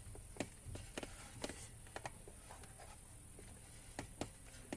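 Faint, scattered clicks and light taps of a hand tool working on metal as a bracket bolt is gently tightened.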